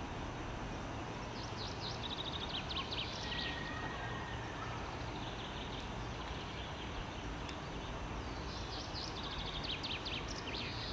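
A small songbird singing twice, a short phrase of quick trilled notes each time, about seven seconds apart, over a steady low outdoor rumble.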